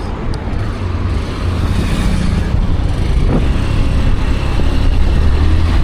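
Road vehicle driving along: a steady low engine rumble with road noise that grows a little louder.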